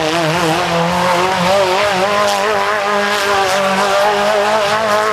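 Mini monster truck's motorcycle engine running hard at high revs, its pitch wavering rapidly up and down as the throttle is worked.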